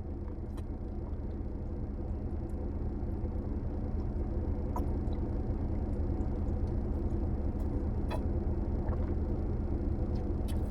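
Steady low hum of a car engine idling, heard from inside the cabin, slowly growing louder, with a few faint small clicks on top.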